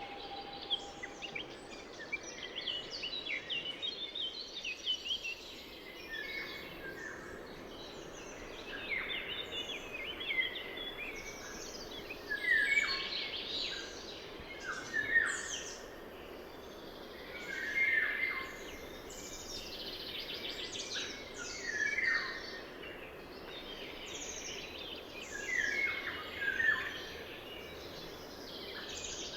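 Several songbirds singing in repeated chirping and trilling phrases over the steady flow of a river.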